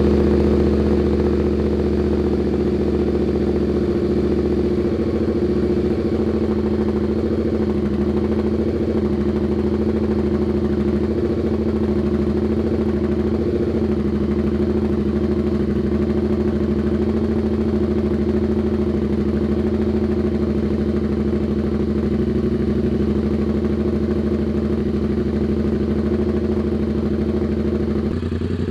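An engine running steadily at idle, with an even, unchanging pitch.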